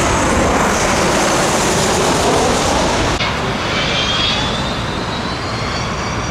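Jet airliner engines passing low overhead, a loud rushing roar whose pitch sweeps as the plane goes by. About three seconds in the sound breaks off abruptly and high engine whine tones come through, slowly rising.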